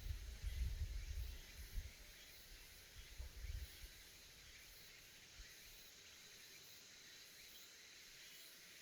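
Faint steady chorus of cicadas buzzing. A low rumble of wind or handling on the microphone dies away after the first couple of seconds.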